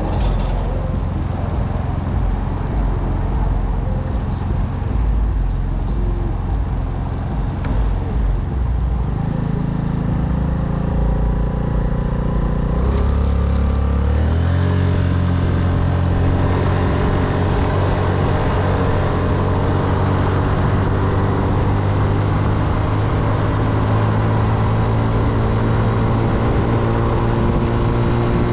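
Motorcycle engine running while riding, with low wind rumble on the microphone at first. Then a steady engine drone, whose pitch dips about 13 seconds in and steps back up to hold a steady cruising note.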